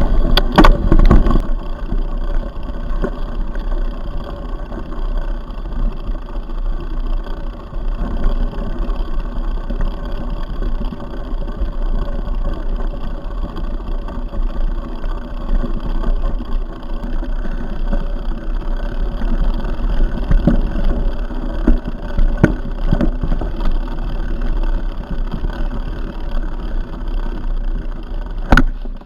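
Steady rumble and rush of a mountain bike being ridden on a trail, picked up by a camera riding along, with sharp knocks and rattles from the bike over bumps.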